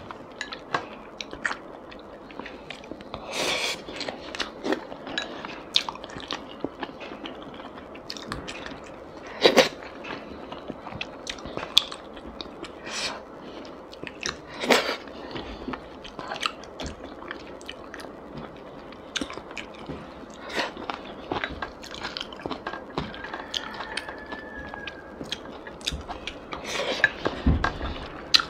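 Close-miked chewing and wet mouth sounds of a person eating rice and braised fish with chopsticks, with many sharp clicks and smacks scattered throughout, a few of them louder.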